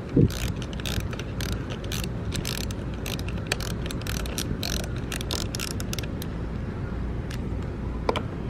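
Hand ratchet wrench clicking in irregular runs as it turns fasteners on a lawn mower.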